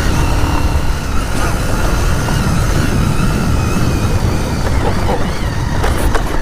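Wind rumbling on the microphone of a moving motorcycle, with the engine running underneath. A few sharp knocks near the end.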